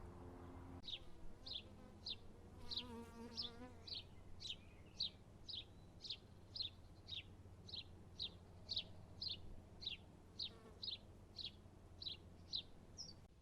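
A small garden bird repeating a single sharp, high, down-slurred call note about twice a second, steadily and evenly spaced.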